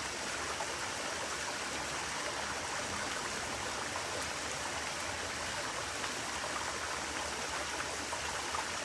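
Flowing water of a stream running steadily, an even unbroken rush.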